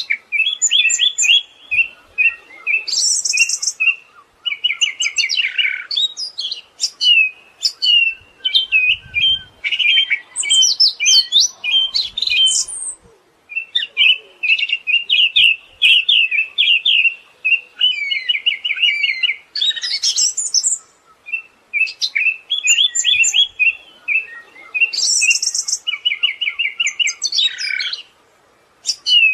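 Siberian thrush singing: rapid chattering runs of trilled and sharp notes, with higher squeaky notes mixed in, in phrases broken by short pauses.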